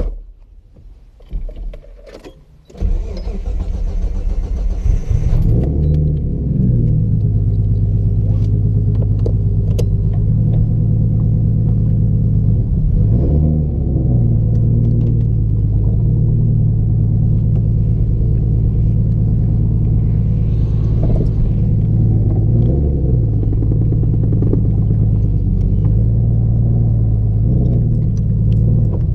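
A sharp knock, then about three seconds in the RB-swapped Nissan S13's engine is started. It cranks, catches and settles into a steady idle, with a few short revs along the way.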